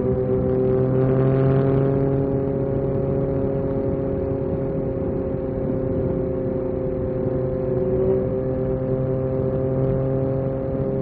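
Yamaha MT-09 SP's three-cylinder engine running at a steady pitch while cruising, rising slightly about a second in, over a steady rush of noise.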